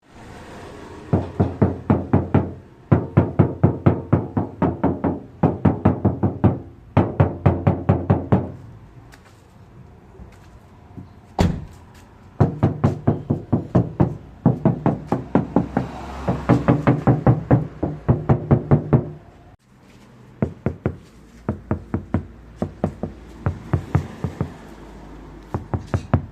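Knuckles rapping on a Skoda car body panel in quick runs of about four to five knocks a second, testing how hollow the panel rings before and after sound deadening. The first two runs ring with a pitched, hollow tone. The last run, from about twenty seconds in, is quieter.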